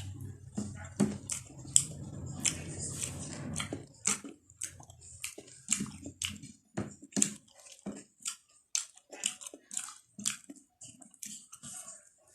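Close-up chewing and lip smacking from someone eating a meal: a quick run of short, wet smacks and crunches, several a second.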